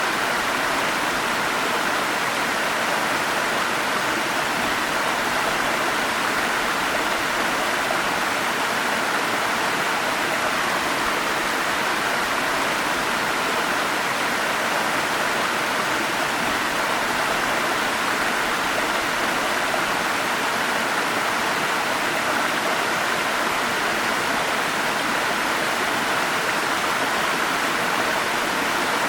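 Forest stream water rushing and splashing, a steady, even wash of sound with no change in it.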